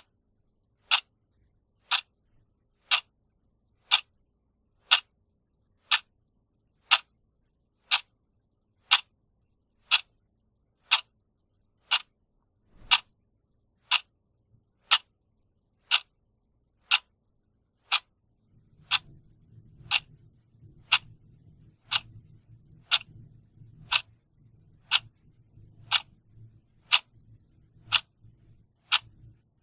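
A clock ticking steadily, one sharp tick a second. About two-thirds of the way through, a faint low rumble starts underneath the ticks.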